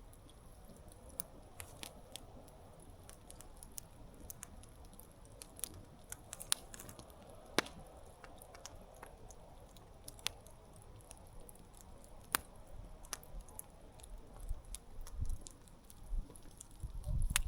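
Wood campfire crackling: sharp pops and snaps at irregular intervals over a faint hiss. A louder low rumble comes in near the end.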